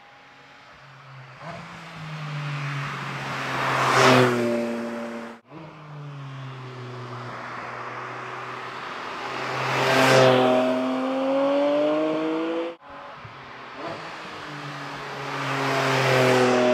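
Porsche 718 Cayman GT4 RS's 4.0-litre flat-six engine heard in passes, over three clips joined by sudden cuts. Its note swells to a loud peak and drops in pitch as the car goes by, about four seconds in and again about ten seconds in. In the last clip it rises again toward the end.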